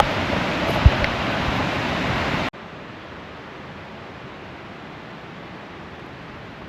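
Steady rush of a waterfall through the trees, with a thump about a second in. About two and a half seconds in, the sound cuts abruptly to a quieter, steady rush.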